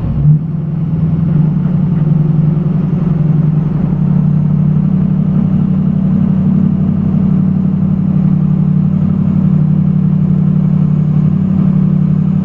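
Ford 6.0 Power Stroke V8 turbo-diesel running steadily under heavy load in low range, pulling a loaded dump truck up a hill.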